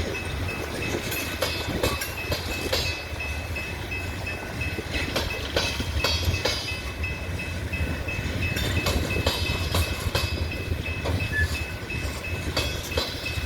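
Loaded coal train's hopper cars rolling past slowly, with a constant low rumble, irregular wheel clanks and knocks over the rail joints, and a thin steady high-pitched whine.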